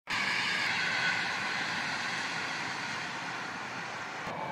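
Train running past at a distance: a steady rushing of wheels on rail with faint whining tones that drift slightly lower, changing abruptly just before the end.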